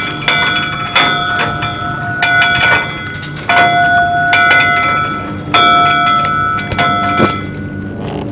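Metal bells struck at an uneven pace, roughly once a second, each stroke ringing on in several clear tones that die away slowly.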